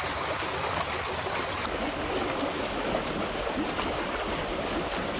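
Floodwater rushing and splashing in a steady flow, duller-sounding after a cut about a second and a half in.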